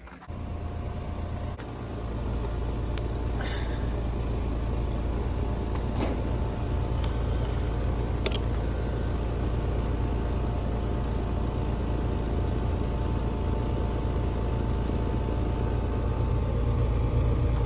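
Central air conditioner condenser running up close: a steady compressor and fan hum over a low rumble, getting louder about two seconds in. The unit is running normally on a newly replaced dual run capacitor.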